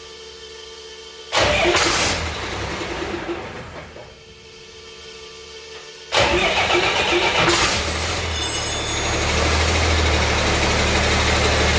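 Cummins 6BT 5.9-litre inline-six diesel being cranked by its starter twice: a first crank of about two and a half seconds that does not catch, then a second crank a little after six seconds in. The engine catches about eight seconds in and settles into a steady idle, its first start since being installed.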